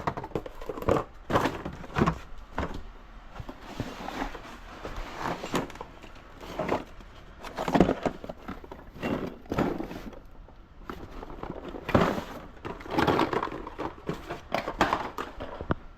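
Rummaging through bins of electrical parts and fittings, with irregular clattering and knocking as pieces are picked up, moved and dropped.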